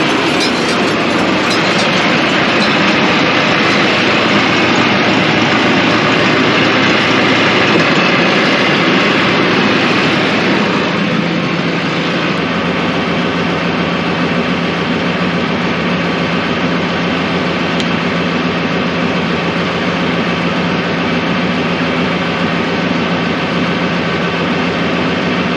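Tractor and John Deere 459 round baler running, a loud, dense mechanical noise that drops a little and steadies about eleven seconds in. The baler is making an abnormal noise whose source has not yet been found.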